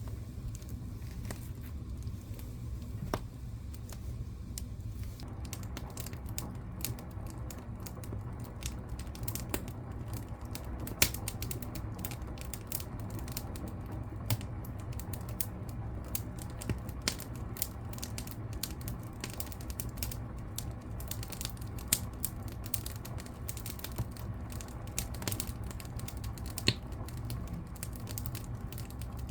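Wood fire crackling in a fireplace: a steady low rumble under constant small snaps and pops that grow denser about five seconds in, with a few louder pops.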